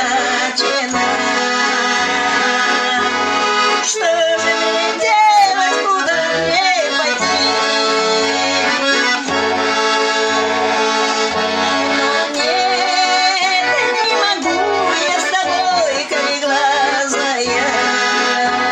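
Russian garmon (button accordion) playing a melody over an even, repeating bass-and-chord accompaniment.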